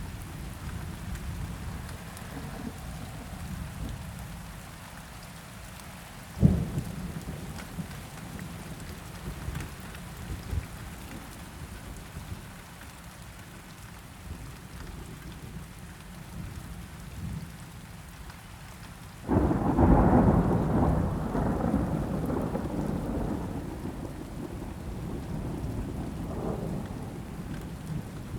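Steady rain falling, with a single sharp thump about six seconds in. About two-thirds of the way through a loud roll of thunder breaks suddenly and rumbles on, slowly fading.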